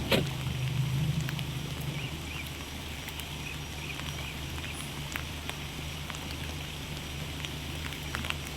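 Light rain, scattered drops ticking on surfaces, over a steady low hum. A single sharp knock sounds right at the start.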